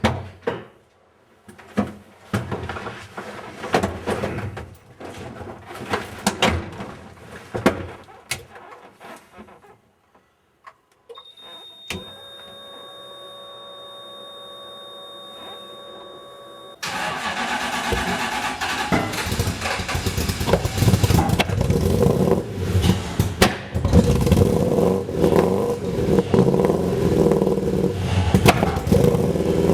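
Scattered knocks and clatter, then a steady whine with a few held tones, then the Toyota 1UZ-FE V8 starts about halfway through and runs, its revs rising and falling; the engine is not yet mapped.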